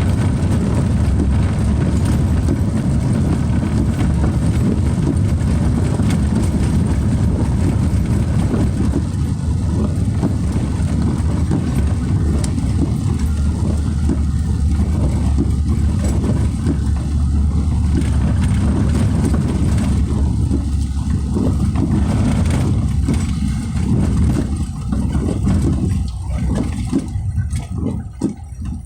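A car driving, with a steady low rumble from the road and engine. Over the last few seconds the rumble turns uneven and drops in level.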